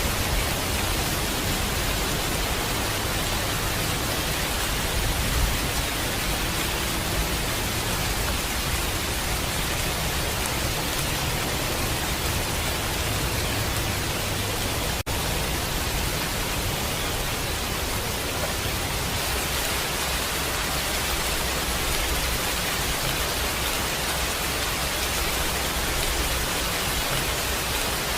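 Steady heavy rain, with a low rumble of distant thunder underneath that eases off about two-thirds of the way through. A split-second gap in the sound comes about halfway.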